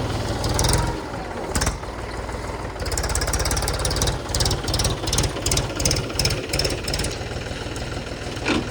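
Mahindra tractor's diesel engine running, its level dipping and swelling, with a sharp knock about a second and a half in and another near the end.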